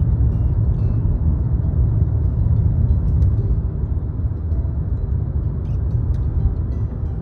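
Steady low rumble of road and engine noise inside a moving car's cabin, cruising along a highway.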